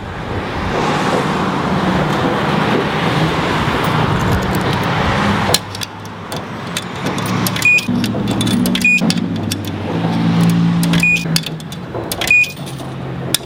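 A loud rushing noise that stops suddenly about five and a half seconds in, then coins fed one by one into a self-serve car wash's coin machine: metallic clinks, each followed by a short high beep, about five times.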